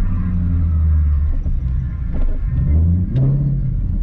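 Drift car engine running hard on the track, the revs dropping about a second and a half in and climbing again near three seconds.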